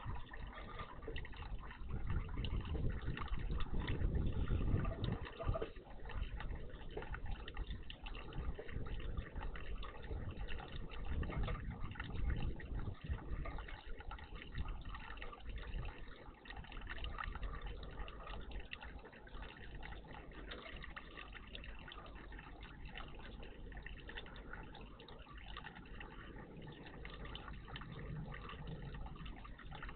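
Water splashing and running steadily in a garden bird bath. There is a deeper rumble in the first half that eases off about fourteen seconds in.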